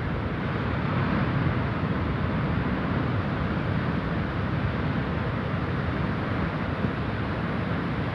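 Rough sea surging against rocks: a steady, continuous rush of surf, with wind noise on the microphone.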